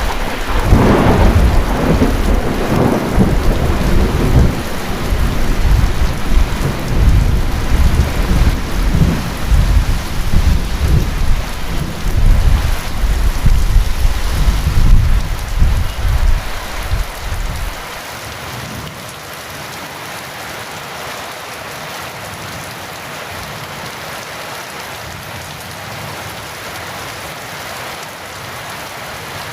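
Heavy rain falling steadily, with a long rolling thunder rumble. The thunder stops about two-thirds of the way in, leaving only the even hiss of the rain.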